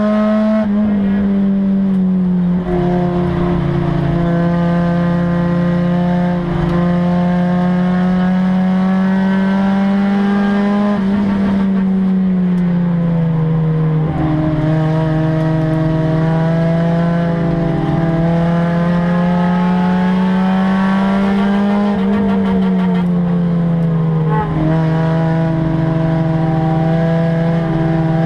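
Race car engine heard from inside the stripped, caged cabin, running hard under load with a loud, steady drone. Its pitch slowly climbs, falls about eleven seconds in, climbs again and falls once more a little past twenty seconds, as the throttle comes off and back on through the laps. A few brief knocks come through the car's body.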